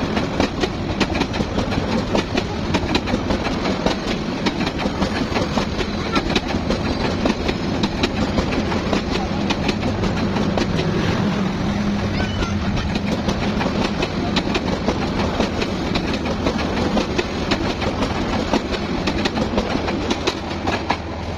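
Passenger train running along the track: a steady rumble with rapid clattering clicks of the wheels over the rails.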